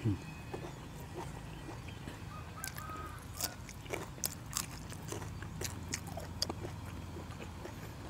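Two people chewing and biting food, with scattered moist smacks and clicks of the mouth.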